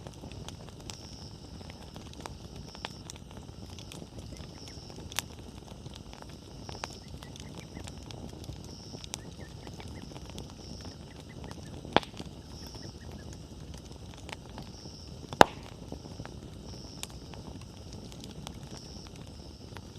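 Wood campfire burning: a steady low rush with scattered crackles, and two sharp, louder pops in the second half. A faint high chirp pulses about once a second behind it.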